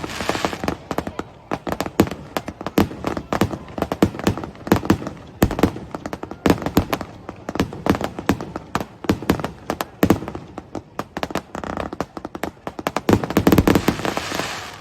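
Aerial fireworks bursting in rapid succession, a continuous stream of sharp bangs and crackles, with denser volleys at the start and again about 13 seconds in.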